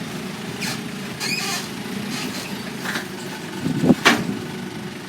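Engine idling steadily, with one loud metallic clunk a little before four seconds in.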